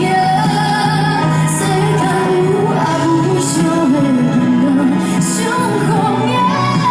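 A song with a woman singing a slow, gliding melody over instrumental backing.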